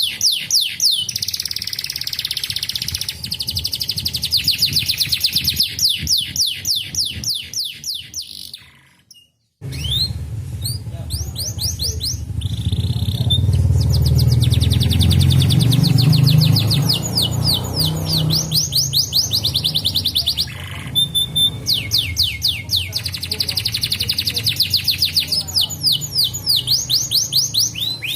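Domestic canaries singing fast rolling trills of rapidly repeated, downward-sweeping notes. The song breaks off into silence for about a second, nine seconds in, then resumes over a low rumble for several seconds.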